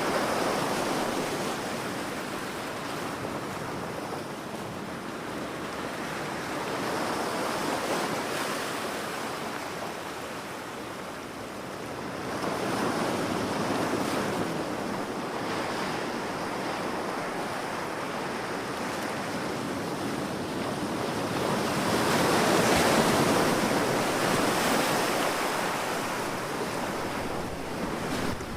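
Ocean waves breaking on a shore, a continuous wash of surf that swells and eases in slow surges every several seconds, the biggest about two-thirds of the way through.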